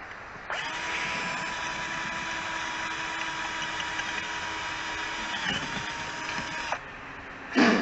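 Electric drill running for about six seconds, starting and stopping abruptly, with a brief sag in pitch near the end as the bit takes load: drilling a bolt hole out larger.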